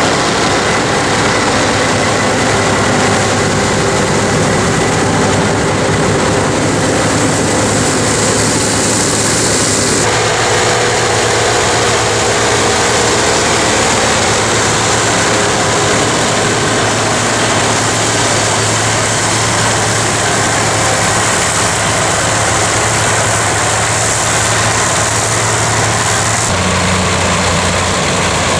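Massey Ferguson tractor engine running steadily while working a forage harvester cutting silage, with a steady hum and a high hiss. The sound changes abruptly about ten seconds in and again near the end.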